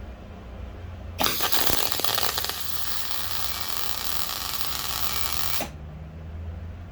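A workshop tool runs with a loud hissing noise for about four and a half seconds. It starts abruptly with some clatter in the first second and cuts off suddenly.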